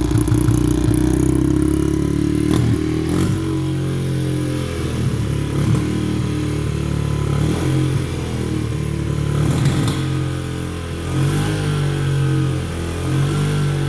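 Honda CRF70F's small air-cooled four-stroke single idling just after a first-kick start, running evenly, its note rising and dropping slightly a few times; the engine sounds healthy, "sweet as a nut".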